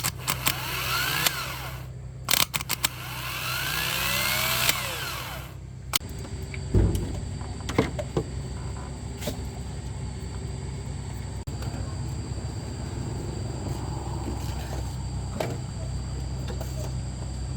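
A power tool runs in two bursts with its pitch sliding up and down, then several sharp metallic knocks, over a steady low hum.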